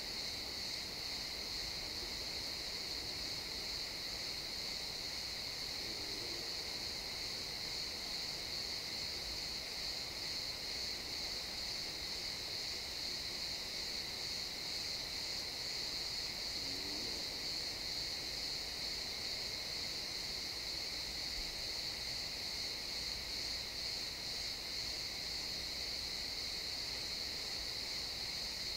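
A chorus of crickets chirping, a steady, unbroken high-pitched trill.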